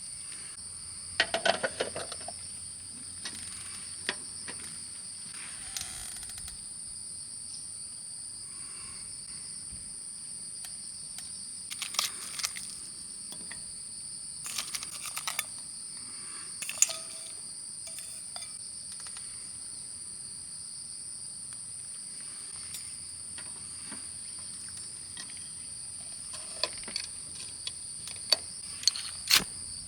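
Steady high-pitched chorus of crickets, with scattered metallic clinks and clatter of camp cookware being handled, in short clusters about a second in, in the middle, and near the end.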